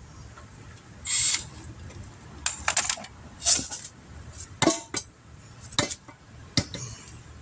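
Tire repair reamer being worked in and out of a nail puncture in a tire, cleaning out the hole, in a series of short, irregular strokes.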